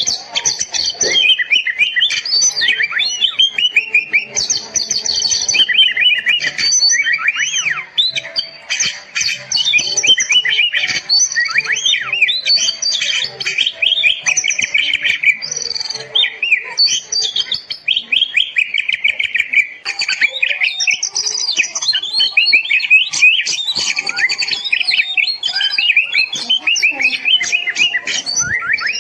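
Oriental magpie-robin singing a fast, unbroken, varied song of whistled glides and rapid chattering notes: a kacer 'masteran' training song for caged birds.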